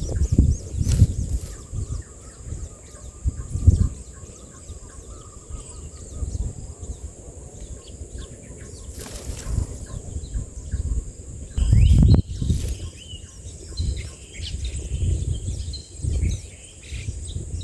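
Faint short chirps of shrike nestlings in the nest, over irregular low thumps and rumbling, with a steady high whine in the background.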